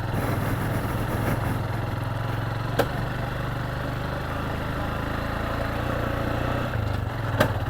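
Motorcycle engine running at low, steady revs, with two brief clicks, about three seconds in and near the end.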